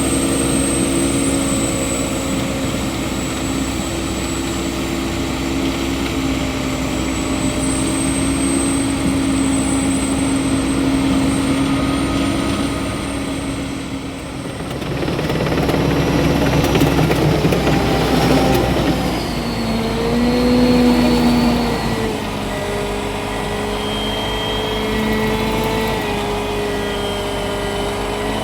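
Pistenbully 600 Polar SCR snowcat's Mercedes-Benz OM 460 LA six-cylinder turbodiesel working under load, with a steady high turbo whistle and the whine of its hydraulic pumps. About halfway through, a surge of rushing noise swells and fades, then the machine settles into a steady run at a lower pitch with a higher whine above it.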